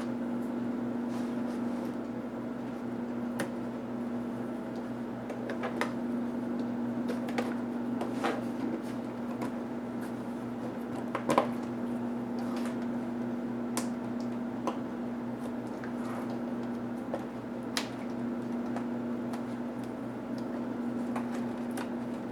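Scattered small clicks and taps of plastic and metal laptop parts being handled and pried during disassembly, the sharpest about halfway through, over a steady low hum.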